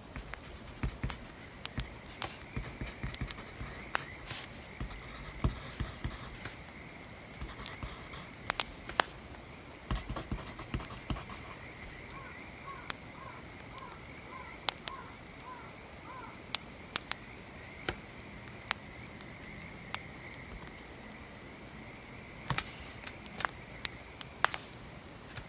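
Wood fire crackling, with sharp pops at irregular intervals, over the soft scratching of pencil writing on paper.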